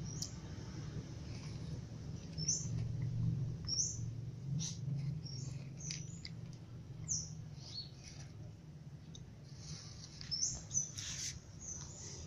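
A small bird chirping in the background: about a dozen short, high chirps at irregular intervals, over a low steady hum. A few soft scuffling clicks come through.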